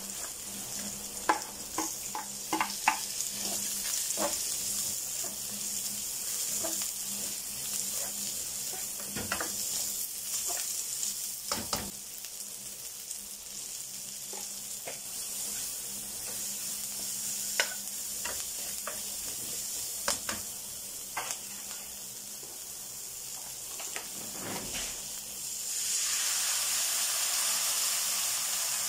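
Garlic and onions sizzling in hot oil in a nonstick frying pan, with scattered clicks and scrapes of a spatula stirring them. Near the end, tomato sauce is poured into the pan and the sizzle grows louder.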